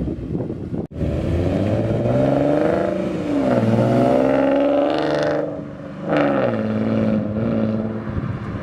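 Ford Mustang 3.7-litre V6 breathing through BBK long-tube headers, a catted H-pipe and Roush axle-back mufflers, revved several times, the pitch climbing and falling between revs. The sound breaks off briefly about a second in.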